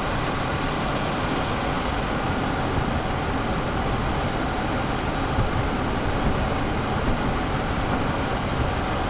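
Steady road and tyre noise inside the cabin of a 2023 Toyota Highlander Hybrid on the move.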